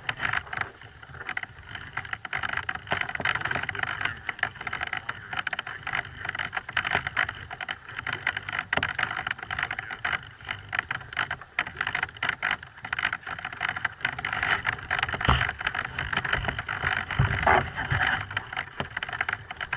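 Small electric motor and propeller of an FPV radio-control plane running with a steady whine, under crackling wind noise, with a few louder knocks in the second half.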